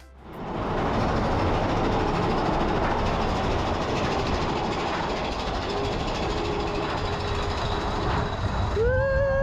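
Steady running noise of a moving vehicle that fades in at the start, with a single whistle or horn blast sounding near the end and held.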